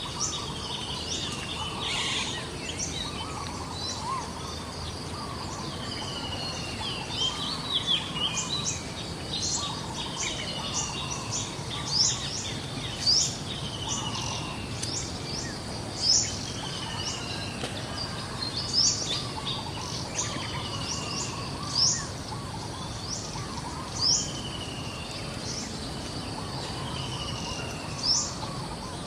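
Birds calling over a steady outdoor background hiss: short high chirps repeating every second or so, with falling whistled notes between them and a louder chirp every few seconds.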